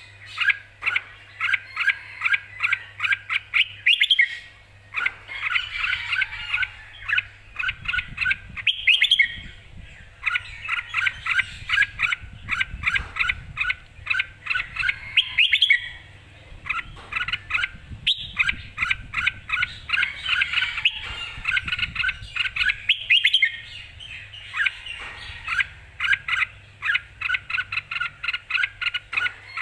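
Red-whiskered bulbul singing: quick, clear phrases of short whistled notes, repeated over and over with brief pauses between them.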